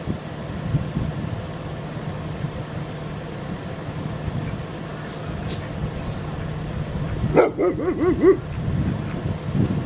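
A quick run of about seven nasal duck quacks about two-thirds of the way in, over the steady hum of an idling vehicle engine.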